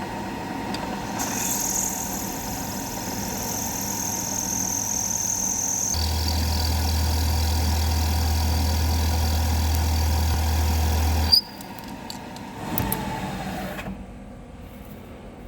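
Milling machine spindle cutting with a 12 mm ball-nosed carbide end mill into the induction-hardened layer of a steel bulldozer ripper pin. It gives a steady high whine that drops in pitch about six seconds in, when a low hum joins. It stops abruptly a little after eleven seconds.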